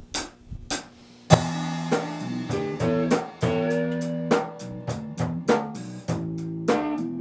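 A few evenly spaced sharp clicks counting in, then a blues band starts about a second in: guitar, bass guitar and drum kit playing together.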